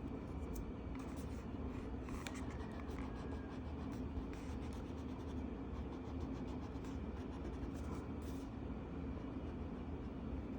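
Colouring pencil scratching across paper in many short, irregular strokes, over a steady low background hum.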